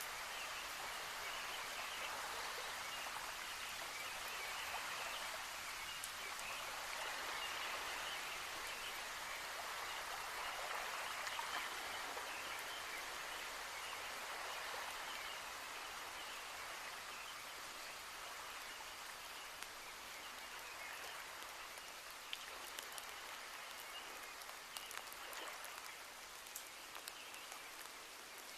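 Steady rainfall, an even hiss of falling rain, slightly heavier in the first half, with scattered sharper drip ticks later on.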